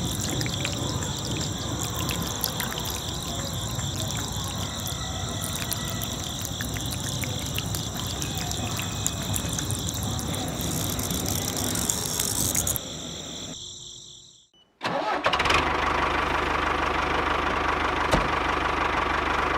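An engine running with a dense rumble and two steady high whines. About 13 seconds in it fades out to silence, then resumes abruptly as a steadier, even drone.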